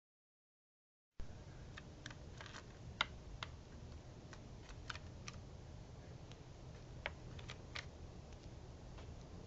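Birds pecking at seed on a feeder: irregular light taps and clicks over a faint low hum, with two louder taps about three and seven seconds in. The sound starts after about a second of dead silence.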